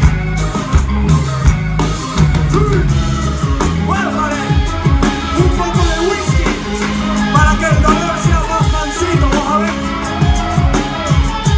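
A live band playing an instrumental stretch of a song, with drums and bass keeping a steady beat under melodic lines.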